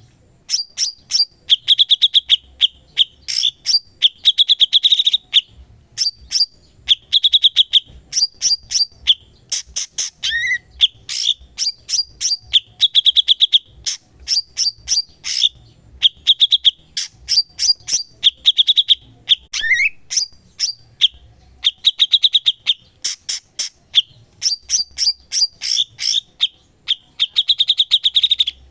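Cucak cungkok singing continuously. Fast rattling trills recur every second or two, mixed with short high, sharp notes, and a lower gliding note sounds twice, around ten and twenty seconds in.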